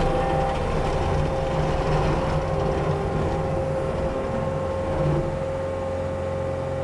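Heavy land-clearing machine's diesel engine running steadily under load, with a steady high whine over the engine noise.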